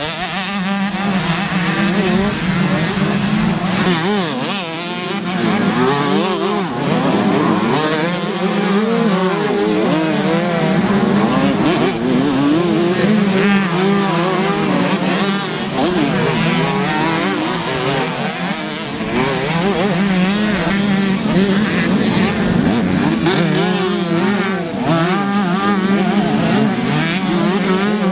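125cc two-stroke motocross bikes racing, their engines revving up and down continuously as they accelerate and shift, several engine notes overlapping.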